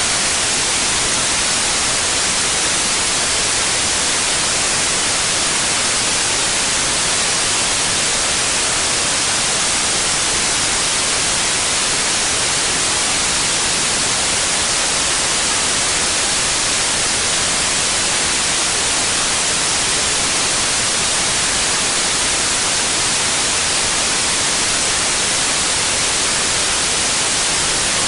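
Synthetic white noise: a steady, loud, unchanging hiss.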